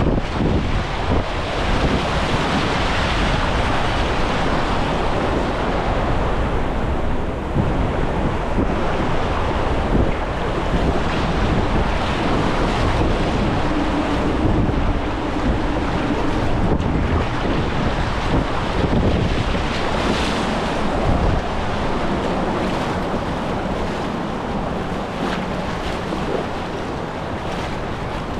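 Rushing whitewater river current, a steady loud wash of water, with wind buffeting the microphone.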